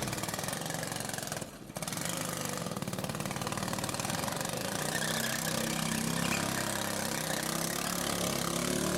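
Car engine idling over steady outdoor background noise, its low note growing stronger about halfway through; a brief dip about one and a half seconds in.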